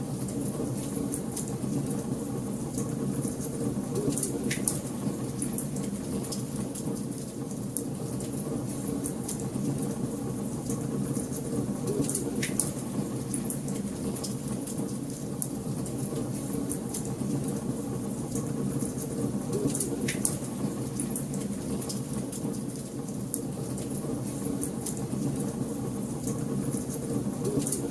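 Wood fire crackling in a fireplace: a steady low rumble of burning logs with scattered sharp pops and snaps, a few of them louder than the rest.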